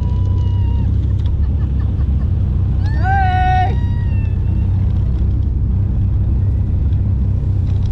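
A car engine running steadily, a loud low rumble heard from inside a car on a drive. A brief high tone with several overtones cuts in about three seconds in.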